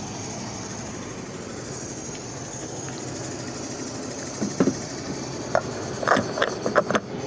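A vehicle engine running steadily, with several short knocks in the second half.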